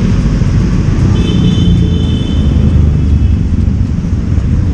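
Loud, steady low rumble of street traffic and motorcycle engines, with a thin high steady tone for about two seconds near the middle.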